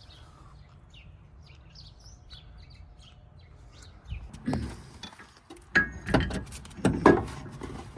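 Birds chirping faintly. From about halfway through comes a run of loud knocks and clunks from hand work on the car's rear suspension.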